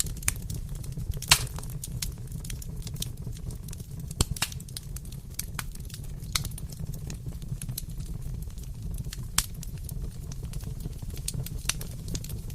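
Wood fire crackling in a fireplace, a steady low rumble with irregular sharp pops and snaps, a few of them louder.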